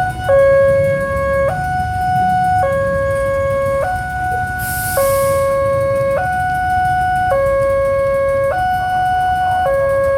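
Railway level-crossing warning alarm sounding its two-tone signal, switching between a low and a high tone about once a second, over the low rumble of road traffic. A short hiss comes about halfway through.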